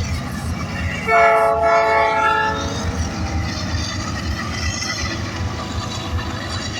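A train horn blast of about a second and a half, starting about a second in, over the steady low rumble of a passing train.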